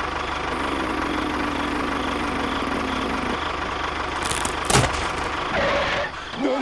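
A small engine running steadily at idle, with one sharp knock nearly five seconds in.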